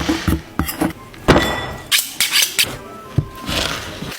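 Kitchen handling noises: a run of sharp knocks and clatters with short bursts of scraping or rustling noise between them, the loudest knock about a second in.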